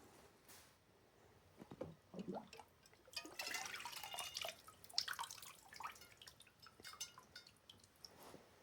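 Faint dripping and trickling water with scattered light clinks and knocks, as wet parts are handled at the anodizing tanks.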